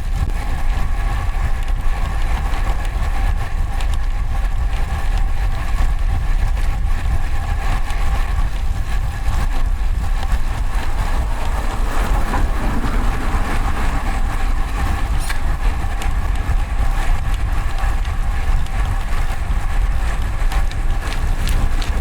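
Heavy wind rumble on a bicycle-mounted microphone while riding in road traffic, with a steady drone of several tones underneath.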